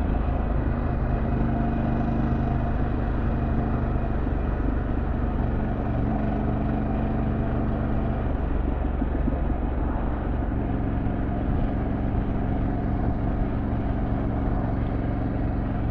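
Harley-Davidson Pan America Special's 1250 cc Revolution Max V-twin running steadily at cruising speed, with rushing wind noise over the engine.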